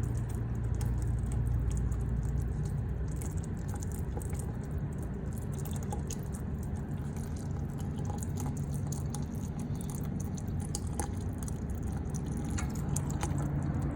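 Thick, dirty gearbox oil mixed with water draining out of a 1944 Farmall H's transmission, dripping and pouring steadily.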